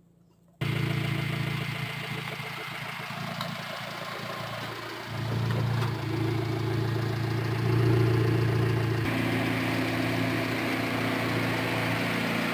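2015 Fiat 500 Abarth's 1.4-litre turbocharged four-cylinder engine running steadily near idle. It cuts in suddenly about half a second in and grows louder around five seconds in and again near eight seconds.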